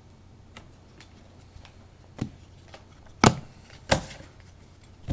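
Trading cards and their holders being handled on a table: a series of sharp clicks and taps, the two loudest about three and four seconds in.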